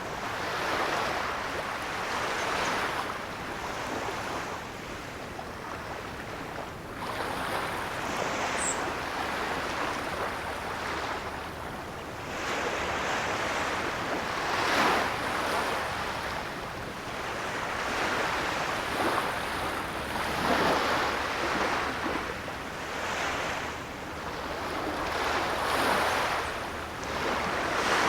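Ocean surf: waves swelling and washing back in a rolling hiss, a new surge every five or six seconds.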